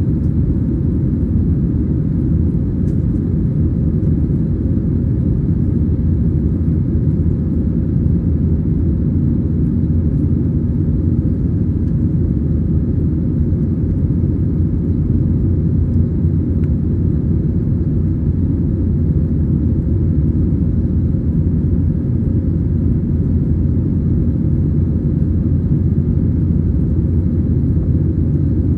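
Steady low rumble heard inside the cabin of an Airbus A320-214, its CFM56 engines running at constant power with air noise along the fuselage, unchanging throughout.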